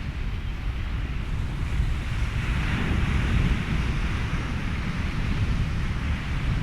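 Ocean surf and wind with a deep, fluttering low rumble. A wave swells and washes in about two to four seconds in.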